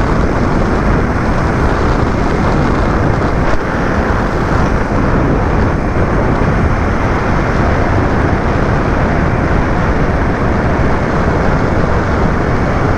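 Steady loud rumble of a vehicle travelling along a rough, low-maintenance road, road and wind noise together, with a single knock about three and a half seconds in.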